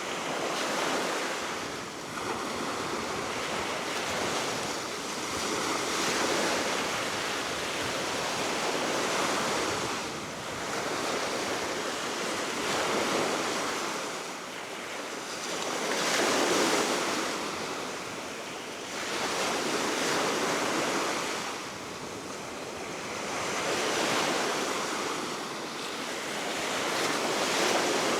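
Baltic Sea waves breaking and washing ashore, a steady rushing that swells and falls back every three seconds or so, with wind blowing across the microphone.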